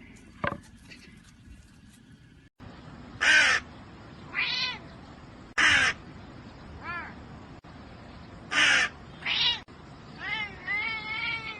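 A cat meowing in rising-and-falling calls, alternating with three loud, harsh cawing calls spaced a few seconds apart, and ending in a run of quick meows. There is a single sharp click about half a second in.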